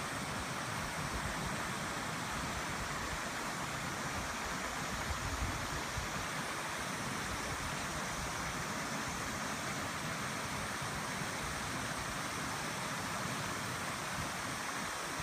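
Gorge stream rushing steadily over rocks: an even, unbroken water noise.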